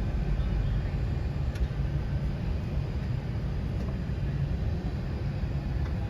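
Steady deep rumble of an Airbus A380 airliner, a constant low drone with an even hiss over it.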